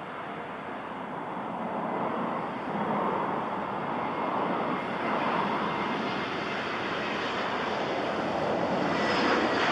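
Aircraft engine noise from a plane approaching, a steady rushing sound that grows louder throughout.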